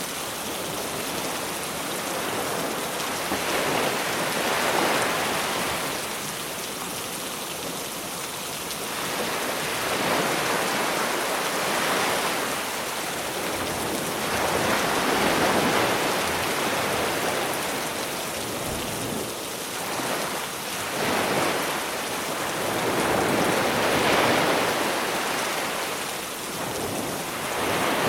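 Sea waves washing onto the shore, swelling and falling away every few seconds, under a steady hiss of rain.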